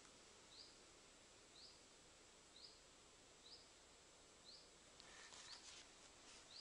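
Faint bird call: one short, high, slightly rising chirp repeated about once a second. About five seconds in, light footsteps on a dirt path start.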